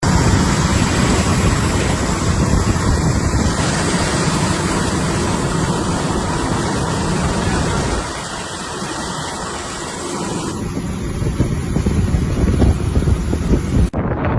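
Loud, gusty rushing noise, wind buffeting the microphone, that changes abruptly twice and cuts off suddenly near the end.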